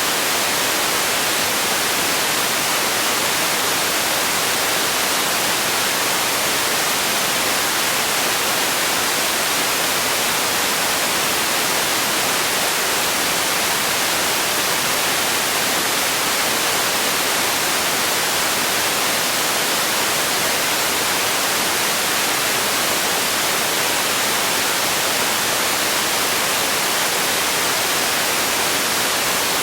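Steady, unchanging white noise: an even hiss, strongest in the treble with little bass.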